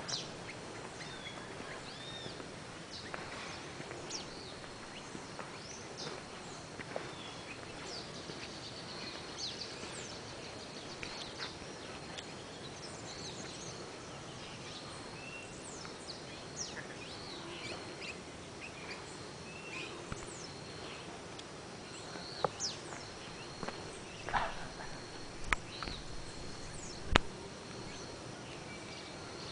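Several birds calling, with many short chirps and whistles, over a steady high insect drone. A few sharp clicks or knocks come near the end.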